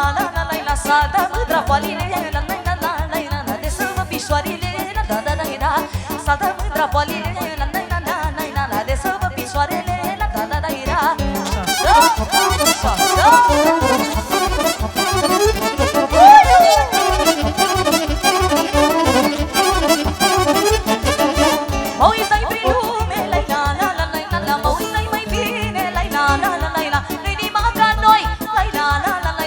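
Instrumental passage of live Romanian party music with a steady, even beat and melody lines.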